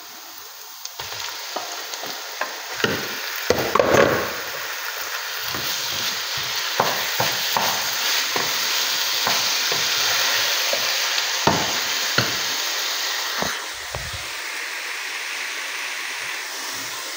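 Diced raw chicken sizzling as it hits a hot frying pan of onions, the sizzle starting about a second in and growing. A wooden spoon stirs it, scraping and knocking against the pan now and then.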